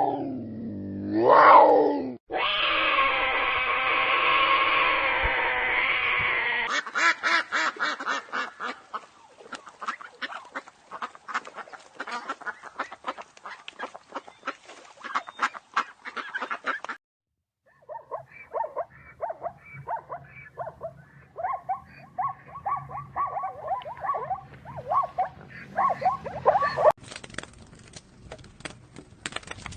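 Animal calls from a string of short clips, changing every few seconds, with ducks quacking repeatedly in short calls through the second half.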